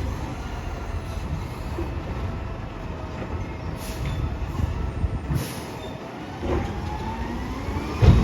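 Garbage truck working at the curb, its engine and machinery running with a faint steady whine. A whine rises in pitch near the end, and a loud bang comes just before the end.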